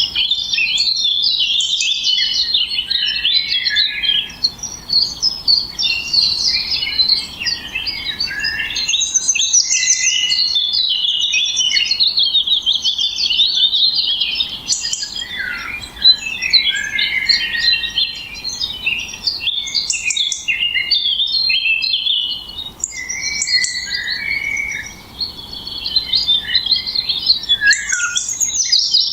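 Birds chirping and singing without a break: a dense tangle of quick, high, overlapping chirps and trills.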